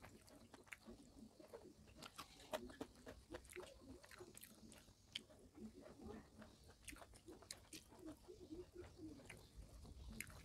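Faint close-miked chewing of rice and fried fish eaten by hand: soft mouth sounds with many small clicks, some from fingers working the food on a plate.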